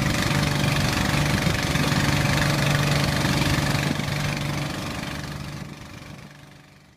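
An engine running steadily with an even hum, fading away over the last three seconds.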